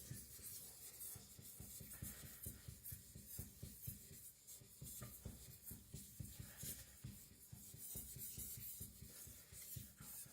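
Faint scraping of a steel cleaver blade rubbed back and forth by hand on a whetstone, a quick, even run of short strokes, while the blade is thinned and its bevel blended into the face.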